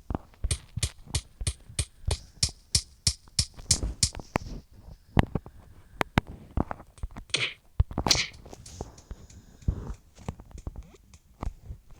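A rapid, even series of sharp taps, about three a second for some four seconds, followed by scattered knocks and two brief scratchy rustles.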